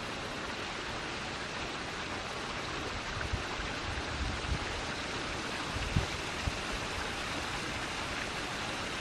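Stream of water flowing steadily with an even rushing sound, with a few faint low thumps.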